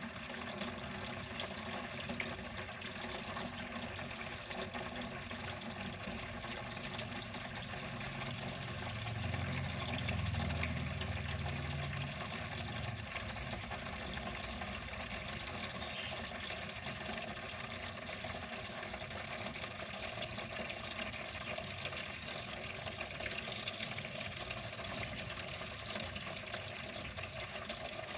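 Water flowing steadily, an even continuous splashing hiss, with a low rumble that swells briefly near the middle.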